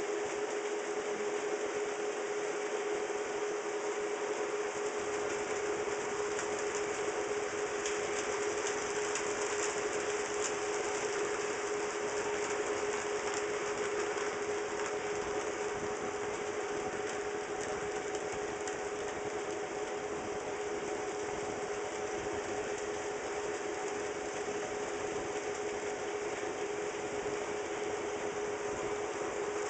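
HO scale model trains running on DC power: a steady electric motor whine with the clatter of small wheels on the rails.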